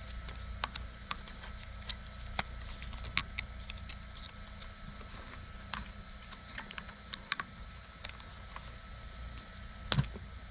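Irregular light clicks and taps of small plumbing fittings, a hose clamp and hand tools being handled, over a steady low hum.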